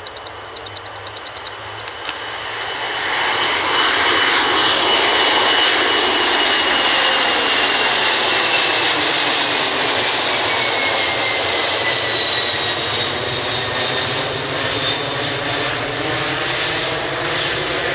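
Boeing 767's twin turbofan engines at takeoff thrust. The sound swells over the first few seconds as the jet draws near, then holds loud and steady with a whine that slowly falls in pitch as the airliner passes and climbs away.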